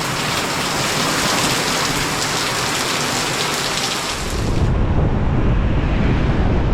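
Heavy rain pouring down in a steady dense hiss; about four and a half seconds in it cuts off suddenly and a low steady rumble takes over.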